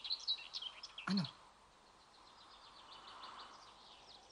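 Songbirds chirping softly over a faint outdoor hiss: a quick run of high chirps in the first second, then fainter scattered chirps.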